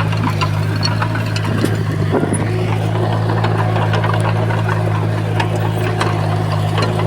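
Komatsu bulldozer's diesel engine running at a steady pitch, with scattered clicks and knocks over it.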